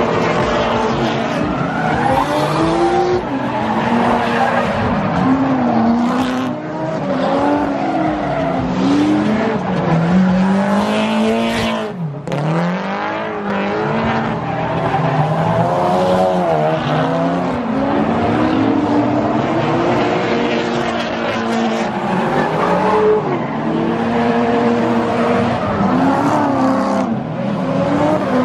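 Drift cars' engines revving up and down over and over as they slide, the pitch rising and falling every second or two, over a steady hiss of screeching tyres.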